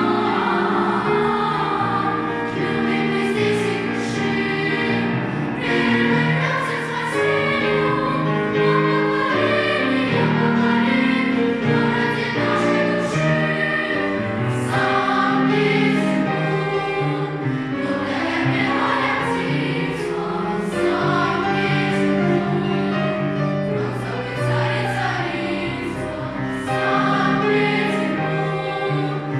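A choir singing a song in sustained, many-voiced harmony.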